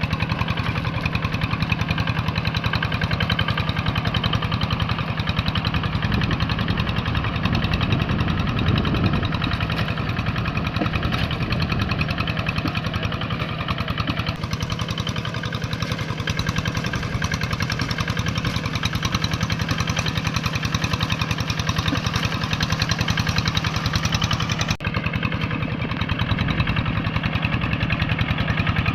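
Tractor engine running steadily under load while working a muddy rice paddy, with two abrupt breaks in the sound about 14 and 25 seconds in.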